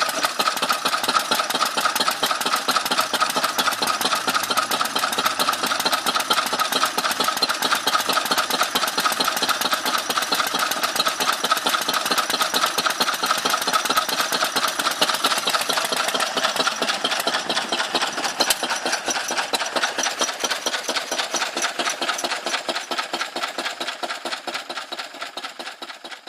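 Lister B stationary engine running steadily with a rapid, even beat as it drives a pump jack. The sound fades away over the last few seconds.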